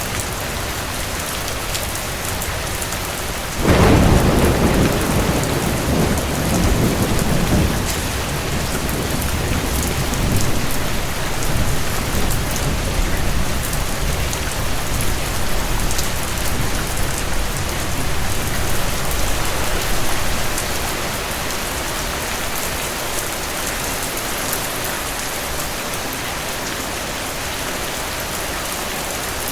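Steady rain, with a sudden clap of thunder a few seconds in that rolls on as a low rumble and fades back into the rain after about fifteen seconds.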